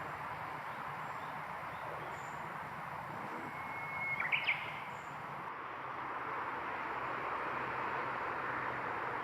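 A single short bird call about four seconds in: a brief held whistle followed by two or three quick, sharper notes, over a steady background noise.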